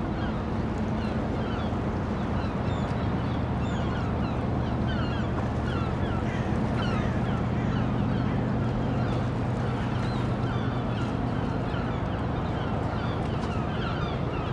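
Dockside ambience: a steady low engine hum with many short bird calls chattering over it.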